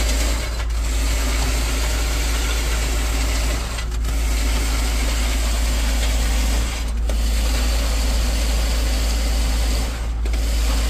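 Truck-mounted concrete pump running steadily under load, its engine and pumping noise broken by a brief dip about every three seconds.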